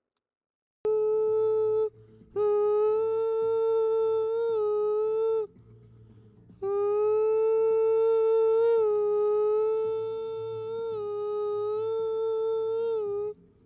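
A man's wordless vocal line, recorded dry with no effects, played back as three long held notes at a steady pitch with a slight waver: a short one, then one of about three seconds, then one of about six seconds.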